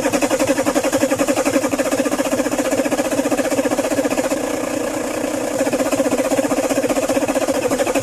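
Starter motor cranking the freshly rebuilt BMW M57 3.0 straight-six diesel, turning it over in a fast, even chuffing rhythm without it firing, to build oil pressure and prime the system on the first start. The rhythm eases briefly near the middle, then resumes.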